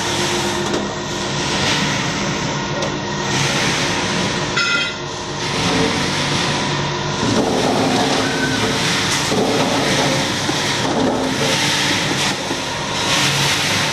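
Steady mechanical running noise with several constant hum tones, with people's voices in the background. A brief high squeak comes about four and a half seconds in.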